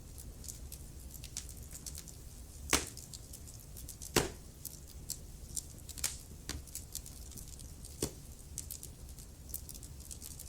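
Wood fire crackling in a fireplace: a steady run of small crackles with a few louder, sharp pops, the loudest about three and four seconds in, over a low rumble.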